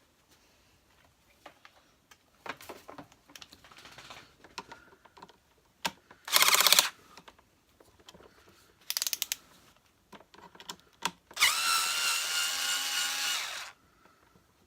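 Power screwdriver backing out screws from the vacuum cleaner's casing. It runs in two short bursts, the second with rapid clicking, then for about two seconds at a steady pitch, with small clicks and knocks of the parts being handled in between.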